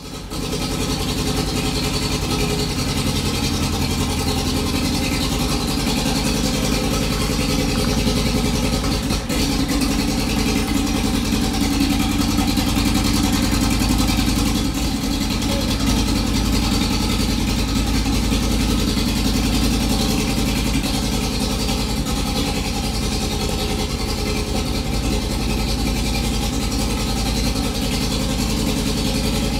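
1965 TVR Grantura 1800S's MGB 1.8-litre four-cylinder engine with twin carburettors, idling steadily.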